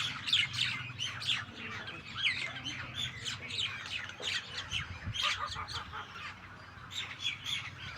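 A flock of starlings and mynas calling over one another in a continuous chatter of short, rapid chirps and whistles that rise and fall in pitch.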